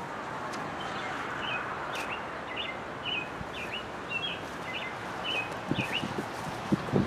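A songbird calling a steady series of short chirps, about two a second, over a constant outdoor noise haze. A few low thumps come near the end.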